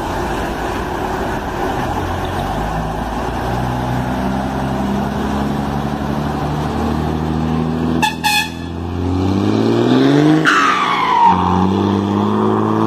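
A truck engine running steadily, two short horn blasts about eight seconds in, then the engine revving up. Near the end a high tone slides down in pitch over the engine.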